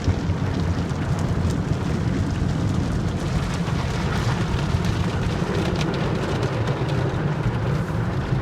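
Automatic car wash tunnel heard from inside the car's cabin: a steady, loud rushing rumble of the wash equipment working on the car.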